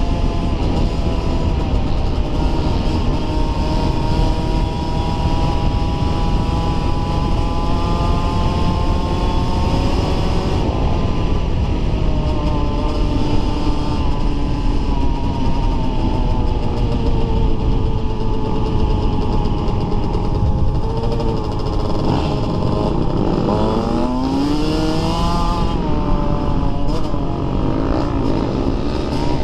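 Dirt bike engine running under throttle. Its pitch climbs steadily, drops suddenly about ten seconds in, then falls and rises again several times near the end.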